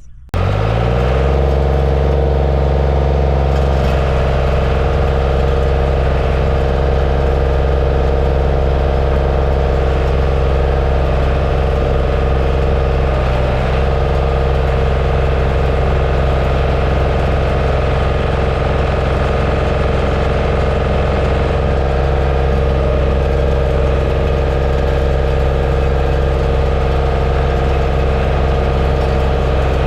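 Bulldozer's diesel engine running steadily at a constant speed, low-pitched and loud. It comes in suddenly just after the start.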